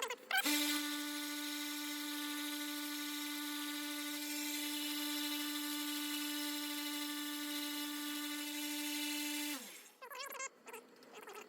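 Harbor Freight 1x30 belt sander running with a steady high whine. It starts about half a second in, then is switched off near the end and winds down, its pitch falling.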